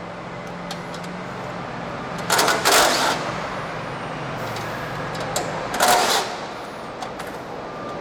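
Two short bursts of a power driver backing out the bolts that hold the grinder's cover, the first a little under a second long and the second about half a second, over a steady background hum.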